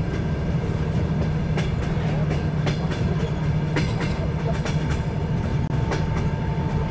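Train running along the track, heard from on board: a steady low rumble with wheels clicking over rail joints. A steady whine comes in near the end.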